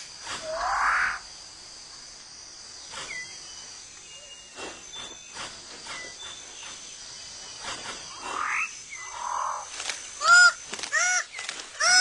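Rainforest animal calls: a rising call near the start and another about eight and a half seconds in, with scattered short whistles and clicks between. From about ten seconds a loud series of arched, ringing notes repeats a little under a second apart.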